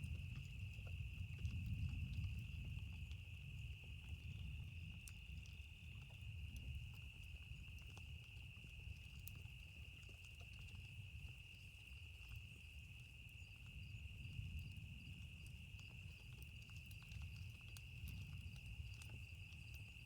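Faint campfire crackling in scattered sharp pops over a steady high insect trill. Low thunder rumbles underneath, swelling and fading a few times.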